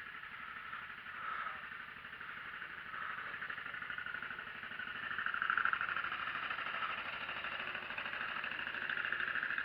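An engine running steadily, swelling a little louder about halfway through.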